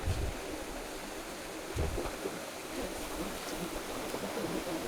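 Steady rush of a mountain stream and waterfall, with two brief low bumps, one right at the start and one about two seconds in.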